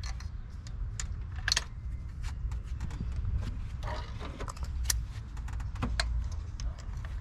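Light metallic clicks and clinks, scattered and irregular, as a spark plug, socket and extension are handled and fitted, over a low steady rumble.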